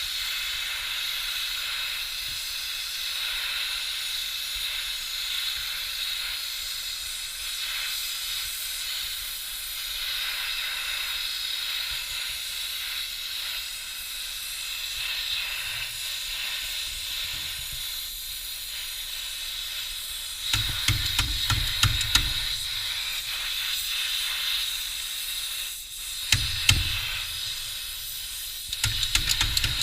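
Brazing torch flame hissing steadily while it heats a brazed copper refrigerant-line joint on an AC compressor to melt it free. From about two-thirds of the way in, a few sharp knocks and clatters.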